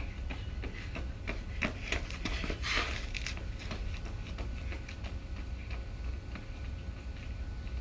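Wind rumbling on the microphone, with scattered light taps and rustles; the brightest comes about three seconds in.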